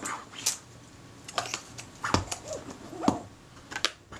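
Scattered light clicks and taps of small metal camera parts and tools being handled on the workbench, with a few short whining glides between them.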